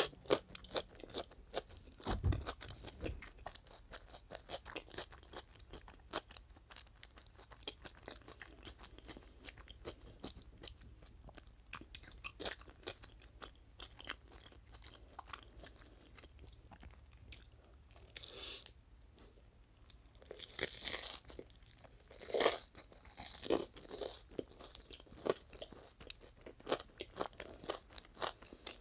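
Close-miked crunching and chewing of a toasted sandwich: irregular crisp bites and crackles with chewing in between, the loudest bite about three-quarters of the way through.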